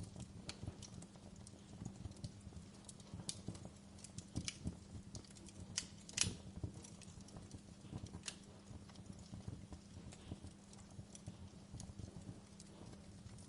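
Wood fire in a fireplace crackling, with irregular pops and snaps over a low steady rumble of the flames; the sharpest pop comes about six seconds in.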